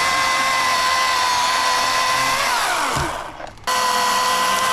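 Electric chainsaw running at full speed with a steady high whine. About two and a half seconds in the trigger is let go and the motor winds down to a stop, then it snaps straight back up to full speed for the last second.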